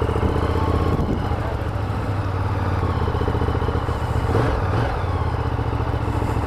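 Ducati Diavel's L-twin engine running steadily at low revs.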